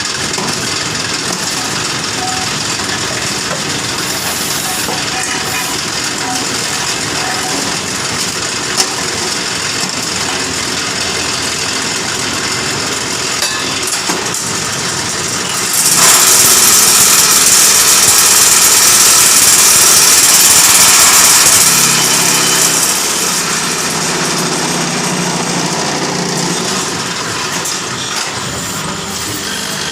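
Concrete block moulding machine running steadily, with a louder, harsher stretch of about six seconds a little past the middle, after which a lower steady hum comes in for a few seconds.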